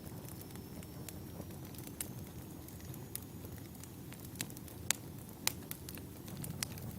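Wood fire burning: a steady low rush of flames with scattered sharp crackles and pops from the burning firewood, the loudest pops about five seconds in.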